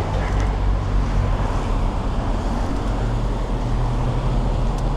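Steady road traffic noise with a low rumble, picked up by a bicycle-mounted action camera; a low engine hum grows clearer about three seconds in.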